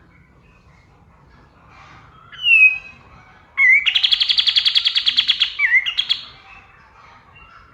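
Male kapas tembak (Sunda bush warbler) singing: a loud slurred whistle, then a rapid rattling trill of many fast notes lasting about two and a half seconds, over faint twittering.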